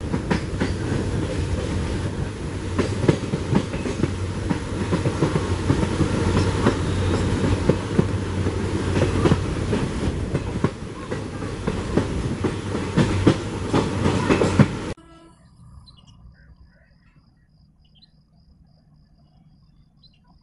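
Train running at speed, heard from aboard: a steady rumble with wheels clattering irregularly over rail joints. It cuts off suddenly about 15 s in, leaving faint outdoor background with an evenly repeated high-pitched chirp.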